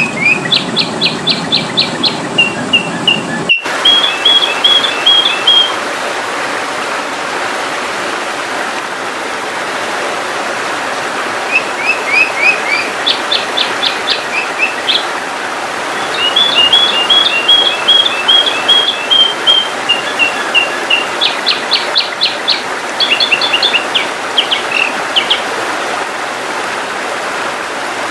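Sooty-headed bulbul (kutilang) calls used as a lure recording: phrases of rapid, high chirps and short slurred whistles, broken by pauses of a few seconds, over a steady hiss. The sound changes abruptly about three and a half seconds in, where two recordings are joined.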